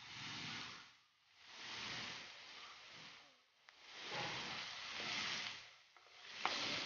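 Chopped onion and garlic sizzling in oil in a nonstick frying pan. The sizzle swells and fades every second or two, and near the end a spatula clicks against the pan.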